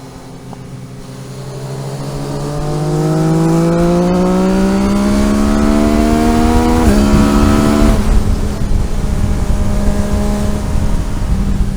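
Vehicle engine accelerating hard, its note climbing steadily under load. About seven seconds in the pitch dips sharply, then holds steady over road and wind noise.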